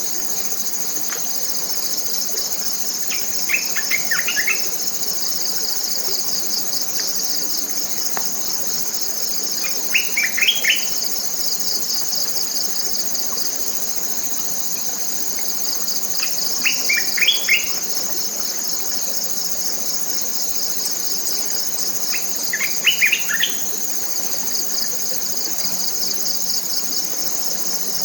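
A steady, high-pitched, finely pulsing drone of forest insects, with a bird repeating a short phrase of several quick notes about every six seconds, four times.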